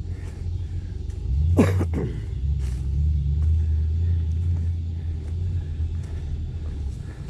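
Steady low rumble on the handheld camera's microphone, with one sharp crack about a second and a half in.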